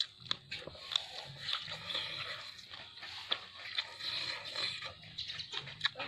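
Close-up eating sounds: a person chewing with open-mouthed smacking, many short wet clicks and smacks throughout.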